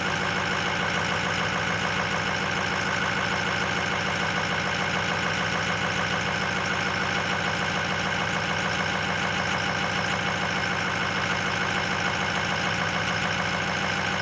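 2005 Ford 6.0 Power Stroke turbo-diesel V8 idling steadily while still cold, about half a minute after a cold start in below-freezing weather.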